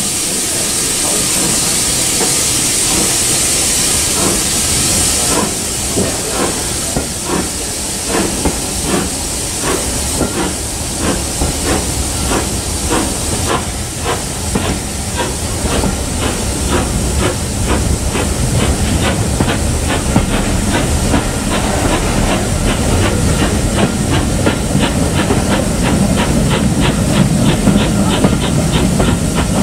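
Steam locomotive getting under way: a loud hiss of escaping steam for the first few seconds, then its exhaust beats, which quicken steadily as the engine gathers speed, over a growing rumble of wheels on the rails.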